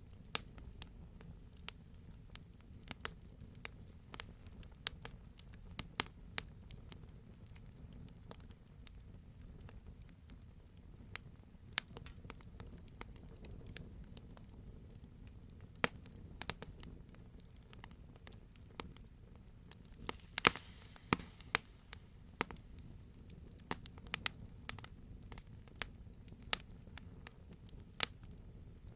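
Wood fire crackling, with frequent sharp pops at irregular intervals over a low steady rumble, and a quick flurry of pops about two-thirds of the way through.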